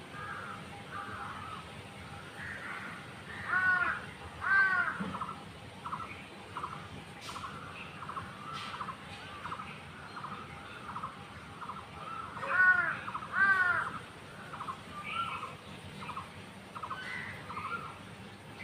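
Wild birds calling: a steady run of short chirps repeated about twice a second, with a pair of loud harsh calls about four seconds in and again about twelve seconds in.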